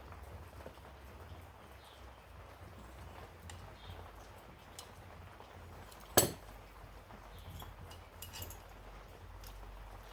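Scattered light clinks and taps of small hard objects being handled, with one sharp clank about six seconds in.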